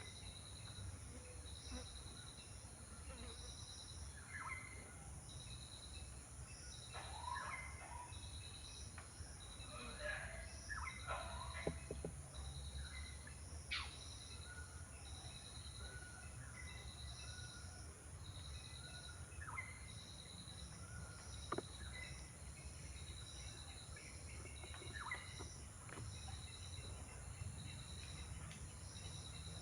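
An insect calling in short high pulses, about one a second, over a steady low background rumble, with scattered short bird chirps and calls.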